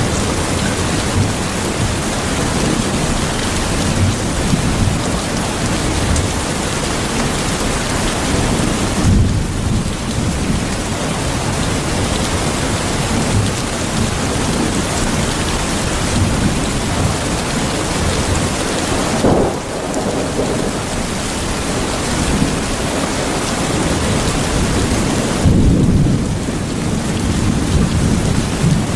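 Steady heavy rain with a deep rumble of thunder underneath. The hiss of the rain briefly thins three times.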